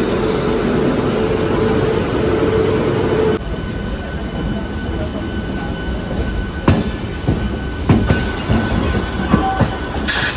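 Local passenger train running, heard from on board: a steady loud rumble with a hum, which drops abruptly to a quieter running noise about three seconds in. The quieter part has a faint steady whine and a few sharp knocks, and a brief hiss comes near the end.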